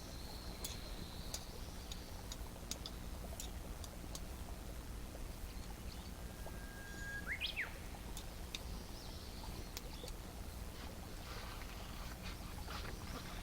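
Campfire crackling with scattered small pops over a low steady rumble, while a bird sings once about halfway through: a held whistle, then a quick up-and-down flourish.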